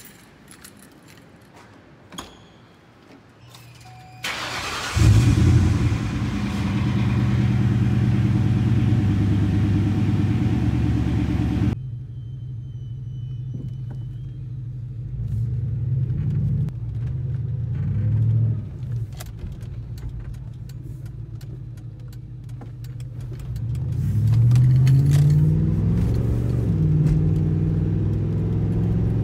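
A 2003 Ford Mustang GT's 4.6-litre V8 starting with a brief crank about four seconds in, then running loudly with a hiss over it that cuts off abruptly after about seven seconds. The engine then runs more quietly, revs rise and fall twice, and near the end the pitch climbs as the car accelerates.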